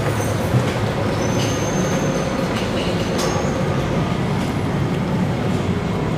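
MRT train running along the elevated viaduct, a continuous rumble, with a brief high wheel squeal about a second in.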